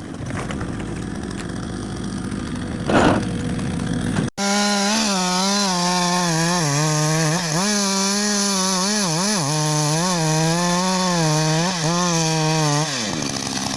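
Two-stroke chainsaw cutting into timber, its engine note dipping and recovering over and over as the chain loads up in the wood, then easing off near the end and revving back up. Before the saw comes in, a few seconds of noisy rumble with one sharp knock.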